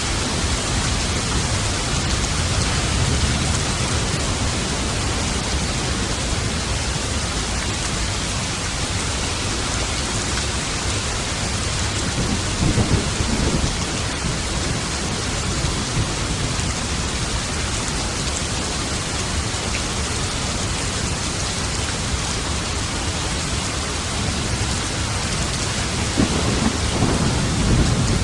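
Steady heavy rain falling, with thunder rumbling low under it; the rumble swells twice, about halfway through and again near the end.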